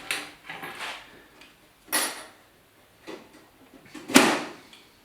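A few short scrapes and knocks of work handling, loudest about four seconds in.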